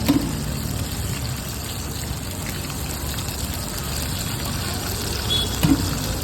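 Bhajiyas deep-frying in hot oil, a steady sizzling hiss, with a short knock just after the start and another near the end.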